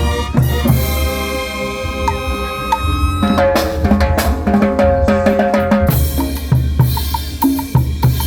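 Live band music: held, stepping horn notes over a steady beat of bass drum and snare.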